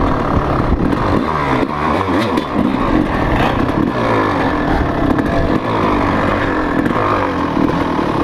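Motocross dirt bike engine running hard, its pitch rising and falling repeatedly as the throttle is worked.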